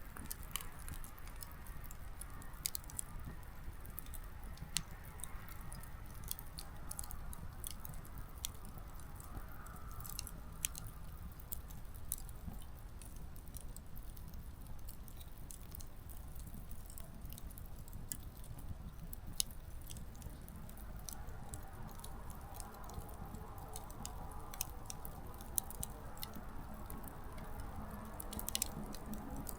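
Small wood campfire burning, the firewood giving off scattered, irregular sharp crackles and pops over a soft, steady rumble of flame.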